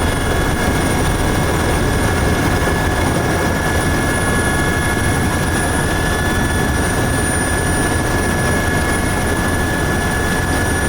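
A helicopter's turbine and rotors running during a landing: a loud, even drone with a steady high whine over it.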